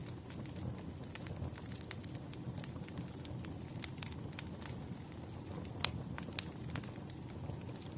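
Wood fire burning with a steady low rush and irregular sharp crackles and pops of the burning logs, one louder snap about six seconds in.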